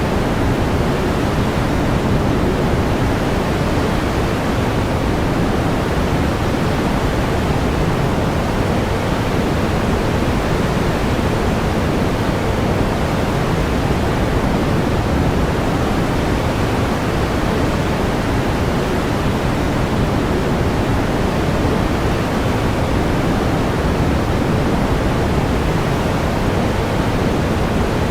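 Steady pink noise: an even, unchanging hiss with more weight in the low end than the high, a deep rushing sound like a distant waterfall.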